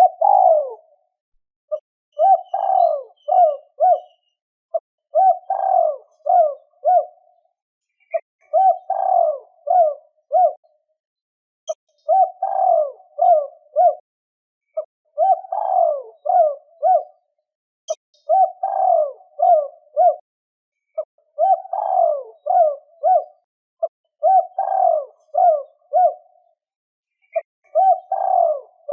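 Spotted dove cooing over and over, about every three seconds: each phrase a longer coo followed by a run of short quick notes. This is the 'two-ending' territorial call of a decoy male, used to provoke and draw in wild doves.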